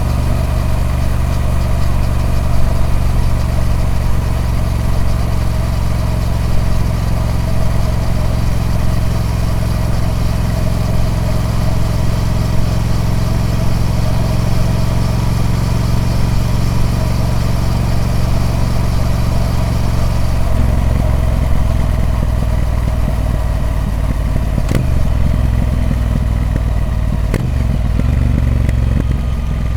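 Triumph Speed Twin 1200's parallel-twin engine running through its stock exhaust, holding a steady note for most of the time. About two-thirds of the way through, the note changes and turns uneven.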